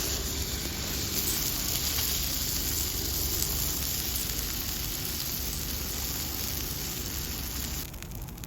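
Food sizzling in hot fat over a campfire: a steady hiss that drops away abruptly near the end.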